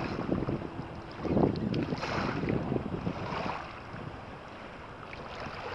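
Wind buffeting the microphone, with water sloshing around a kayak. It swells louder for about a second, starting about a second and a half in, then settles.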